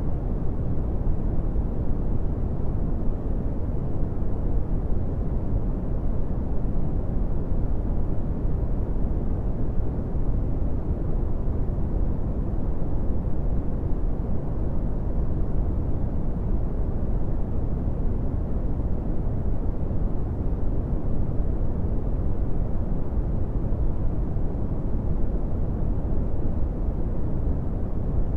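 Steady brown noise: an even, deep rushing hiss with most of its energy in the lows and little above the midrange, unchanging throughout.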